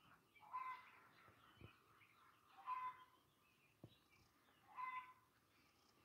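A bird calling over and over, one short, even-pitched call about every two seconds, three times.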